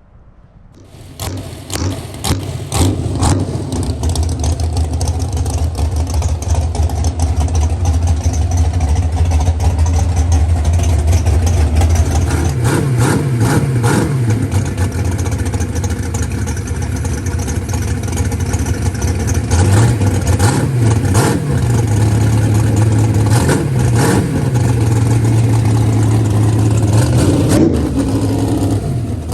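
A 565 cubic-inch big-block Chevrolet V8 in a drag truck starts up about a second in and runs with a low, steady note. It is revved several times, at about halfway and again in the last third.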